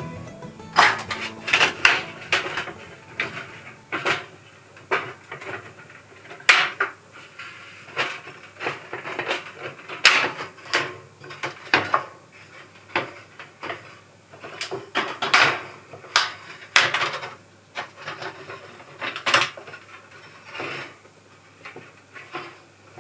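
Irregular light metallic clinks, knocks and scrapes of the metal parts of a homemade fire pit being handled and fitted together, about one or two knocks a second.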